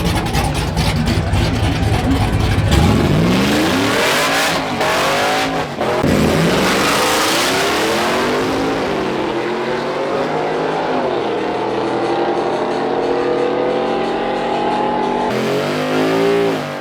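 Race car engines revving hard and accelerating down a drag strip, the pitch climbing and dropping again and again as they rev and shift. There is a noisy stretch in the first few seconds and an abrupt change about 15 seconds in.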